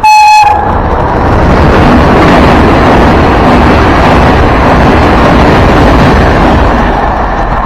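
Electric locomotive's horn giving one short blast, then a locomotive-hauled passenger train passing through the station at speed close by, a loud steady rush of wheels and coaches with wind buffeting the microphone, easing a little near the end.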